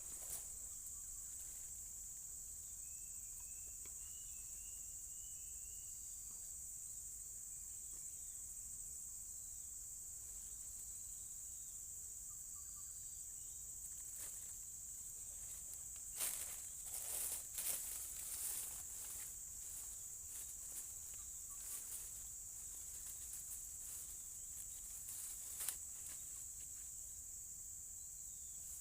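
Steady, high insect drone of crickets or cicadas, with a short run of faint bird chirps a few seconds in. Several brief clicks and rustles come in the middle and once more near the end.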